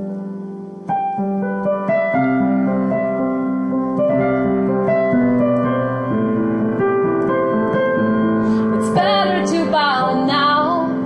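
Solo piano playing slow, sustained chords and melody notes. Near the end a voice sings briefly over the piano.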